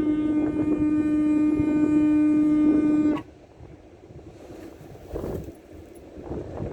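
Shofar blown in one long steady note that cuts off abruptly about three seconds in, followed by a much quieter pause.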